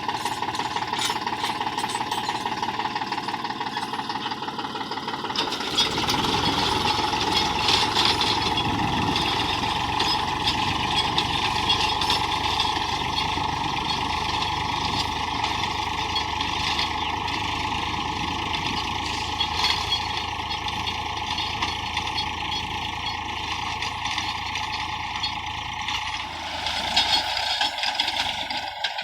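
Tractor diesel engine running steadily under load while pulling a spring-tine cultivator through the soil. It grows louder and fuller about six seconds in, and eases near the end.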